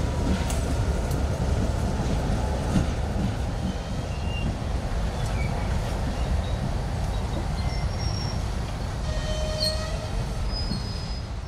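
Train rolling past with a heavy low rumble. Short high wheel squeals come in a few times in the later part, and the sound starts to fade near the end.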